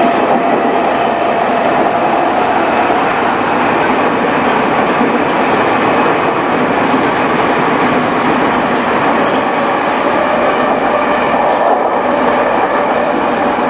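JR East E217 series electric train with a Mitsubishi IGBT-VVVF inverter, running at an even pace: a loud, steady noise of wheels and running gear, with a faint steady tone in the first few seconds.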